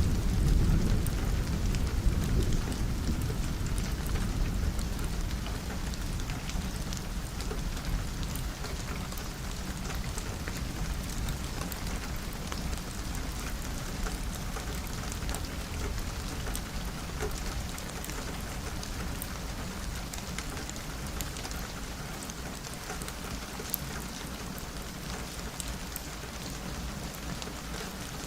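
Steady rain falling on a window, with a low roll of thunder at the start that fades away over the first several seconds.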